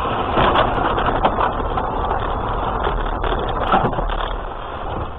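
A vehicle driving: steady road and engine rumble with a few short knocks and rattles.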